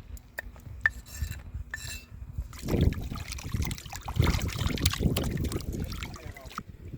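A few light clinks, then liquid pouring and splashing for about four seconds before it stops abruptly.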